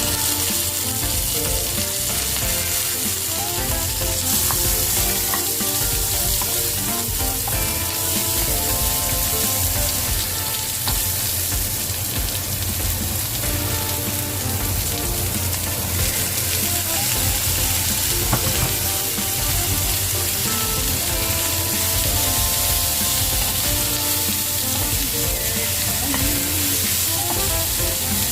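Food frying and sizzling steadily in a hot pan as it is sautéed and stirred.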